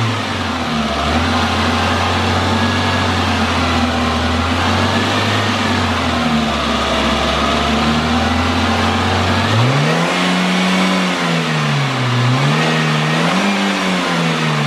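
Renault K7J 1.4-litre eight-valve four-cylinder petrol engine running with its revs held steadily above idle. It is then revved up and let back down twice, about ten seconds in and again near the end.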